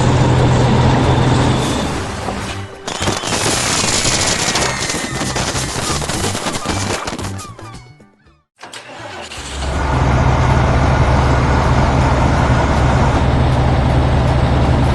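Heavy-machinery engine sound effects over background music: an engine running, then a sudden break to near silence about eight seconds in, after which a steady low engine hum starts up and runs on.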